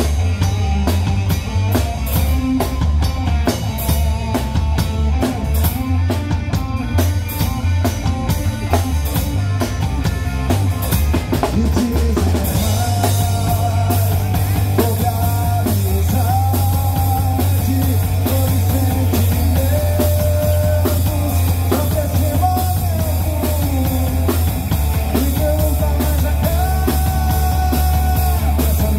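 Live rock band playing an instrumental passage: a drum kit and bass guitar under an electric guitar melody. The drum hits are sharpest through roughly the first half.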